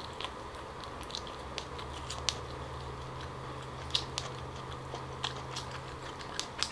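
Close-miked chewing and biting of cooked lobster, with scattered small clicks and crackles as a piece of lobster shell and meat is pulled apart by hand, over a faint steady low hum.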